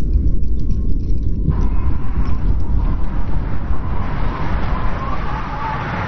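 Blizzard wind blowing in a steady low rumble. A wavering higher whistle grows louder in the second half.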